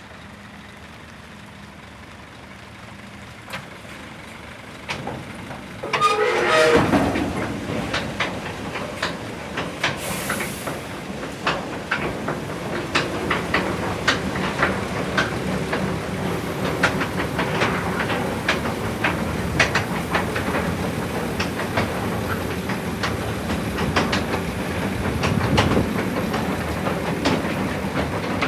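Scania R490 heavy truck and its cassette rig working, starting loudly about six seconds in with a short falling tone and hiss. Frequent metallic clanks and rattles follow over a steady running noise.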